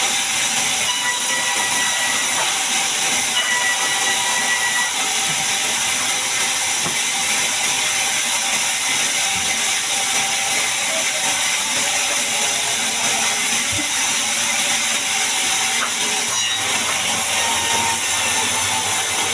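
Sawmill bandsaw running, a steady high-pitched hiss with a few constant whining tones.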